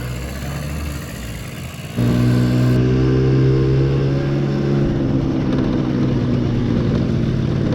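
1982 Honda Melody's 50cc two-stroke scooter engine running while the bike is ridden. About two seconds in it suddenly gets louder and settles into a steady engine note that rises a little in pitch, then holds.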